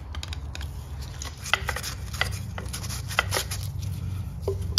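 A stiff, gritty engine part being worked back and forth by hand to free it: irregular light metallic clicks and scrapes, over a steady low hum.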